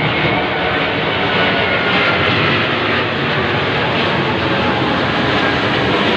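Airplane flying low overhead, its engines making a loud, steady drone.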